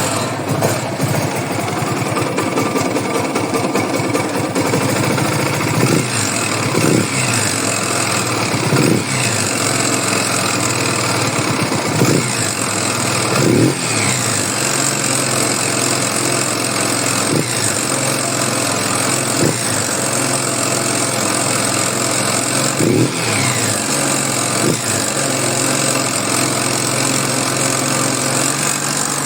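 Yamaha YBR/XTZ single-cylinder motorcycle engine running and being blipped up to mid revs about ten times, falling back between blips. This demonstrates a mechanical noise that comes in at mid revs as the engine goes light and off load, but not at idle or under hard load.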